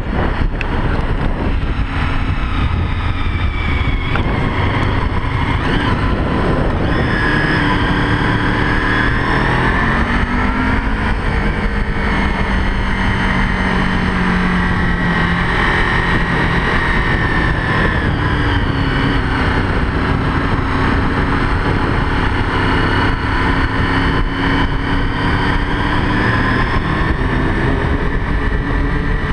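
Sport motorcycle engine running under way, its pitch rising and falling several times as the rider accelerates and backs off, over a steady rush of wind.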